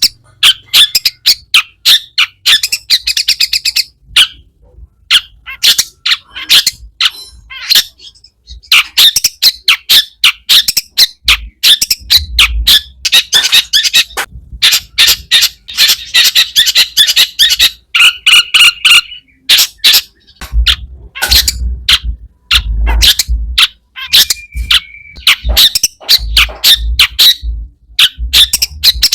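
Long-tailed shrike (cendet) singing a fast, harsh chattering song packed with mimicked calls, broken by brief pauses and a few short clear whistled notes.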